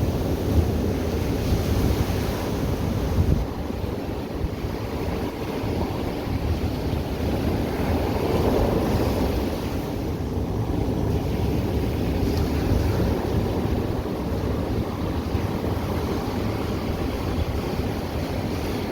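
Ocean surf breaking and washing on the shore, a steady rush that swells and eases, with wind rumbling on the microphone.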